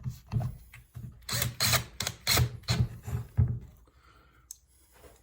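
A drill-driver with a Phillips bit runs a screw into the headlight assembly in a string of short bursts, about eight in two and a half seconds, with a couple of brief ones just before.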